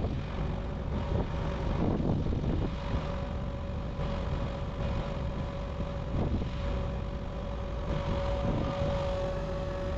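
An engine running steadily, with a low rumble and a steady whine that grows a little stronger near the end.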